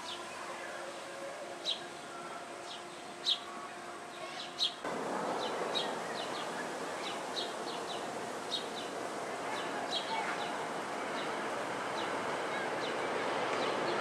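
Small birds chirping: short, high, falling chirps at irregular intervals. Beneath them is a steady background noise that jumps louder about five seconds in.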